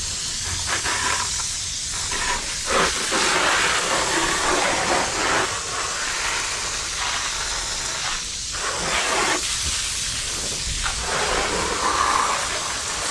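Water spraying from a hose onto a dirt bike, rinsing off soap and dirt. The spray hiss swells and fades as the stream moves across the bike, with brief dips a few times.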